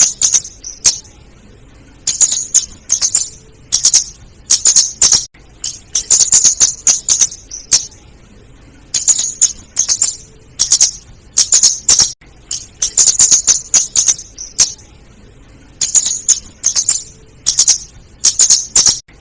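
Female flowerpecker (kemade, or cabe jawa) calling: volleys of sharp, high, ticking notes, each volley about a second long and repeated every couple of seconds with short pauses between. This is a lure-call recording of the female.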